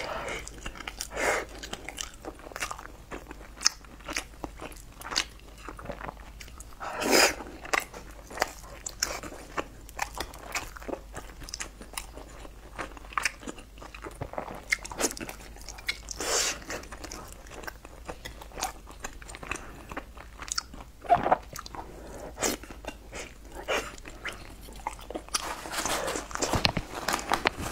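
A person biting and chewing food close to a clip-on microphone: a steady run of irregular crunches and wet mouth clicks, with a few louder bites standing out.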